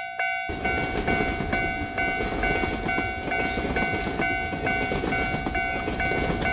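Cartoon train running along the track with a steady rumbling rattle, while a railway level-crossing warning bell rings over it in an even pattern of about two rings a second.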